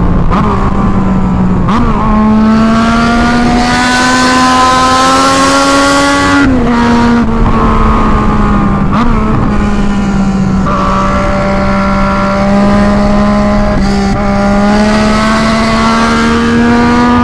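Yamaha MT-09's inline three-cylinder engine, exhaust with the end tip removed, running very loud under way. Its note climbs slowly, drops abruptly about six and a half seconds in, then holds and creeps up again. Wind rushes over the microphone in two swells.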